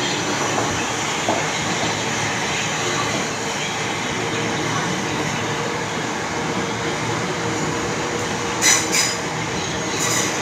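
Gatwick Express electric multiple unit running past on the main line: a steady rumble of wheels on rail and motor hum, with a few sharp clacks near the end as the wheels cross rail joints.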